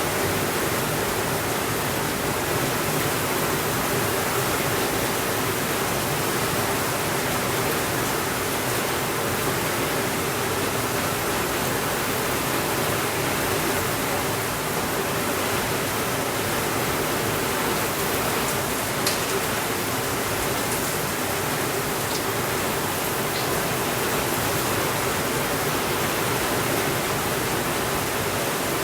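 Steady rain, an even hiss with no breaks. A few faint crackles of a fireplace come through in the middle.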